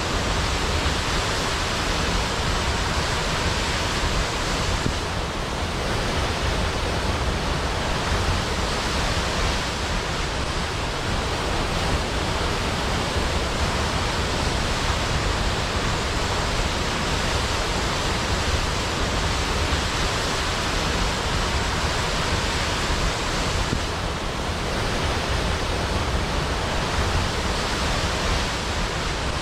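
Large waterfall rushing steadily: a dense, even roar of falling water with deep rumble beneath the hiss.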